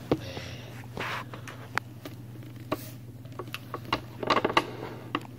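Handling noises: scattered clicks and short scrapes as objects are moved about, loudest a little after four seconds in, over a steady low electrical hum.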